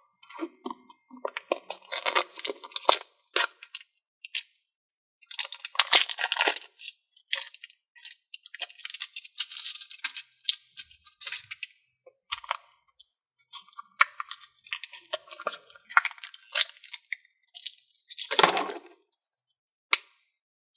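Hands squeezing and kneading magic putty, giving sticky crackling and popping noises in irregular bursts with short pauses between them.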